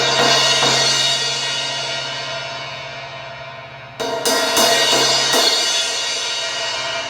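Zildjian 16-inch A Custom Projection Crash cymbal struck and left ringing, with a second strike about four seconds in. Each strike has a few lighter hits after it and a long fading decay. The cymbal has two small cracks, not yet repaired.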